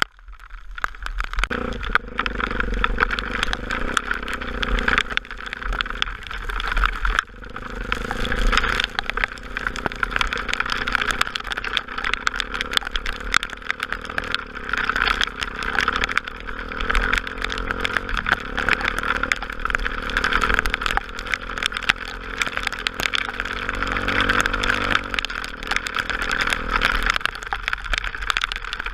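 Honda XR250 Tornado's single-cylinder four-stroke engine running under way, its pitch rising and falling with the throttle, under a steady rushing noise.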